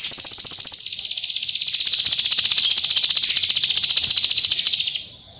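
Tengkek buto kingfisher giving a long, harsh, rapid rattling trill of high notes that stops abruptly about five seconds in.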